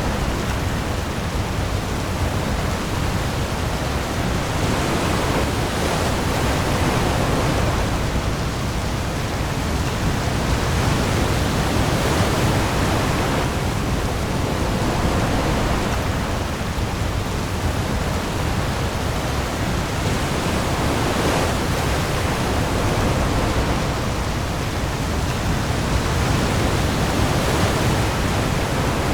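Heavy rain pouring onto the open sea with waves. It makes a dense, steady hiss over a deep low rumble, and the hiss swells and eases every few seconds.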